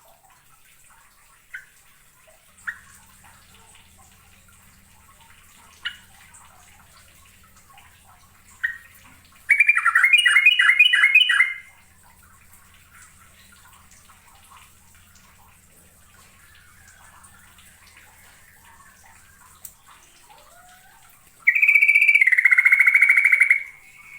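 Sooty-headed bulbul (trucuk) singing: a few short single chirps, then two loud phrases of quick bubbling notes about two seconds each, one midway and one near the end.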